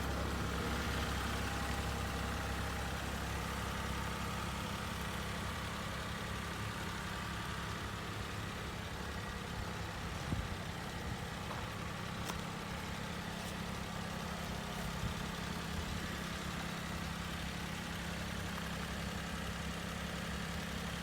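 Mini truck's small engine idling steadily, with a low hum that holds even throughout and a couple of faint clicks about halfway through.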